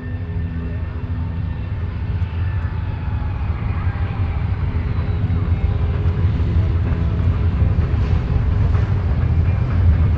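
Aerobatic biplane's piston engine and propeller in flight, growing steadily louder as it approaches, its pitch sliding a little lower as it passes.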